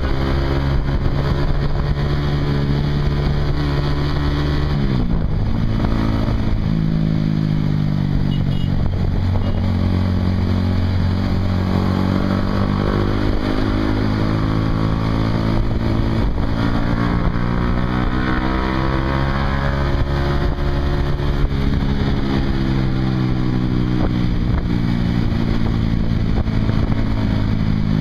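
Honda CBR150R's single-cylinder engine running through a Yoshimura aftermarket exhaust while the bike is ridden. Revs climb and fall through the gears, with a sharp drop in pitch at a gear change about five seconds in.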